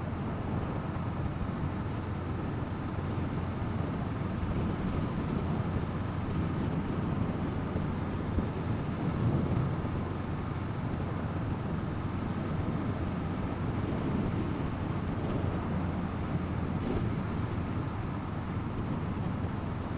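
Steady wind noise on a helmet-mounted microphone while riding, over the running parallel-twin engine of a 2017 Honda CB500F.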